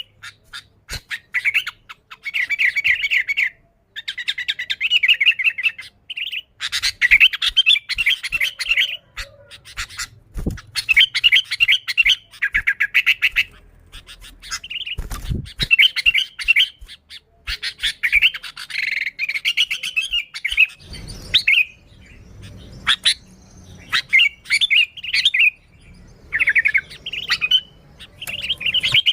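Sooty-headed bulbul singing lively, over and over: short bursts of rapid, chattering notes, each phrase a second or two long, with brief pauses between them.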